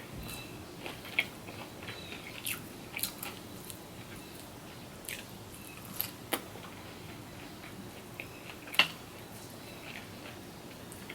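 Close-miked chewing and biting of food, with scattered short wet mouth clicks and crunches, the sharpest about 9 seconds in.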